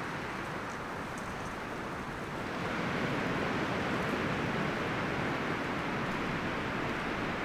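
Wind blowing through forest trees, rustling the leaves and branches as a steady hiss; a gust swells it louder about two and a half seconds in.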